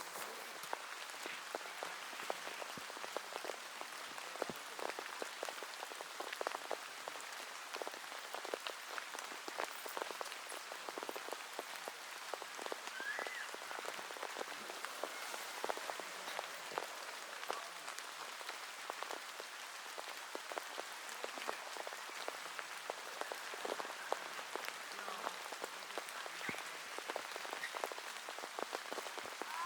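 Steady rain, with many separate drops hitting close by over an even hiss.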